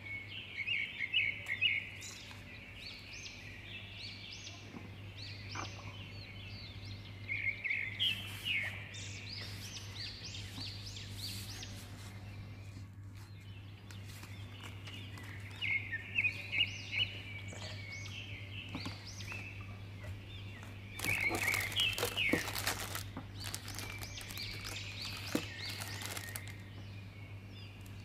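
A small bird chirping in short, rapid runs of high notes every few seconds over a steady low hum. About three-quarters of the way in comes a burst of crackling from paper or plastic being handled.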